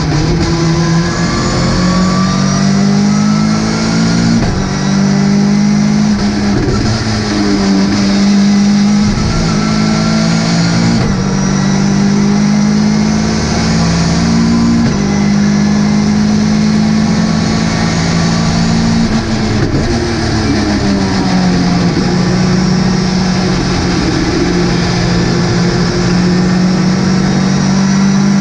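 Ginetta GT5 race car's engine running hard at racing speed. Its pitch rises through the gears and drops sharply at shifts and braking several times.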